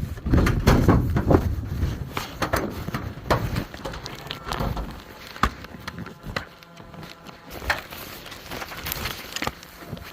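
Scattered sharp clicks and knocks of airsoft play, with loud low rumbling handling noise in the first couple of seconds and a few single sharp cracks later on.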